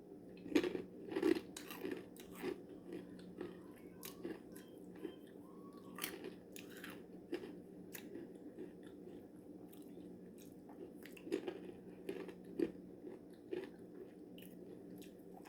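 A person crunching and chewing spicy coated peanuts (Takis hot peanuts, smoking lime flavour): irregular crisp crunches, bunched in a few spells of bites, with quieter chewing between.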